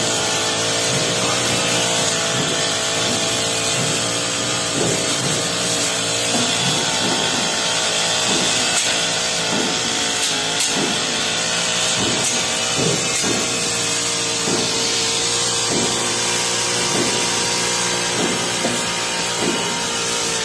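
Honda four-stroke brush cutter running steadily at cutting speed with a metal blade through tall grass, with frequent sharp ticks and knocks as the blade strikes stones.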